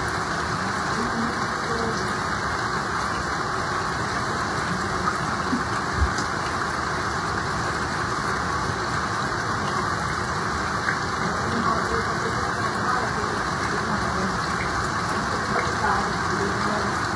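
Heavy rain and rushing floodwater: a steady, loud hiss, with a brief low thump about six seconds in.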